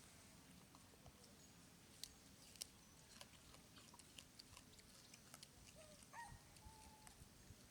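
Faint, near-silent ambience with scattered small clicks and rustles, and a few short, high squeaky calls near the end.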